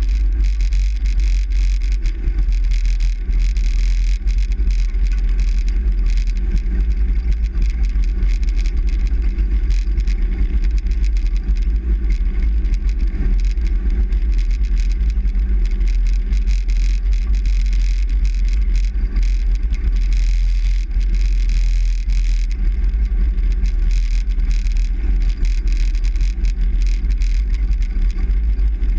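Truck driving, heard from inside the cab: a steady, loud, deep rumble of engine and road noise.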